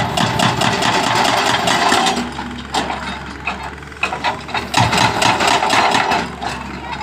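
Kato excavator's hydraulic breaker hammering in rapid blows, in two bursts: the first for about two seconds, the second from about five seconds in, over the steady running of the excavator's engine.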